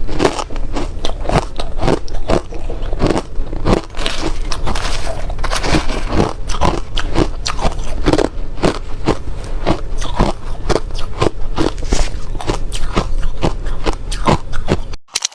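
Crushed bits of hard ice being bitten and chewed close to the microphone: a steady run of loud, crisp crunches, about three a second, that stops suddenly near the end.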